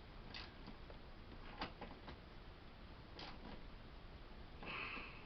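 Faint, scattered metal clicks and taps of bolts and nuts being handled and fitted into a recliner's metal frame, with a short scrape near the end.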